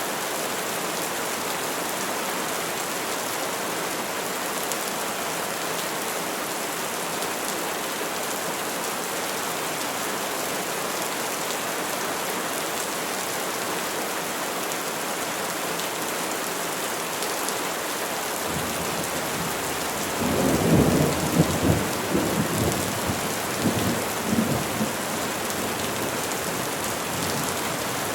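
Steady rain falling on trees, an even hiss. About two-thirds of the way in, a roll of thunder rumbles in with several louder peaks and fades away after about six seconds.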